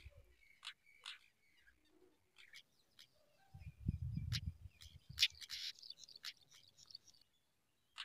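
Small birds chirping in short, separate calls throughout. A low rumble runs through the middle, and a brief burst of rustling noise comes just after.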